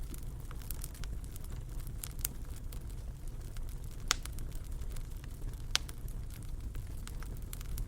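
Wood fire crackling in a fireplace: scattered sharp pops, the loudest about halfway through, over a steady low rumble.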